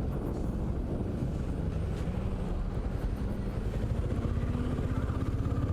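Benelli Imperiale 400's single-cylinder engine running under way, its pitch rising steadily from about two seconds in as the bike accelerates.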